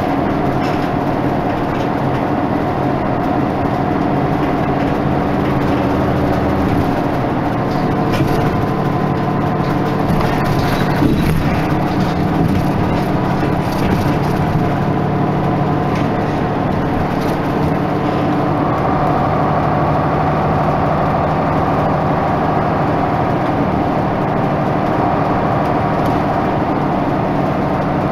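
Isuzu Erga Mio (KK-LR233J1) bus under way, its diesel engine running steadily. The engine note shifts about a quarter of the way in and again past the middle as the bus changes speed.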